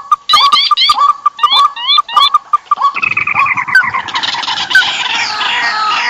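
Bird-lure recording of rice-field birds: one call repeated about three times a second, then from about halfway a dense, noisy chorus of many birds chirping over one another.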